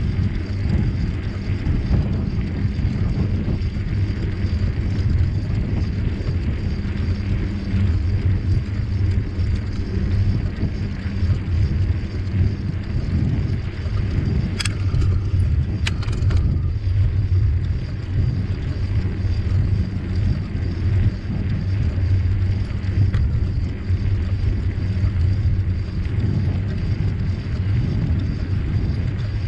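Steady low rumble of a bicycle ride: wind buffeting the microphone and tyres rolling over the trail, with a few sharp clicks about halfway through.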